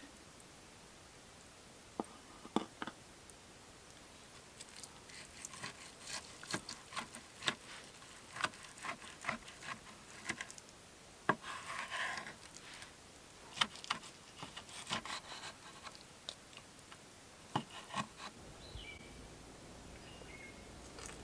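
Irregular light clicks, taps and rubbing of things being handled, with a short scrape about halfway through. A few short high chirps come near the end.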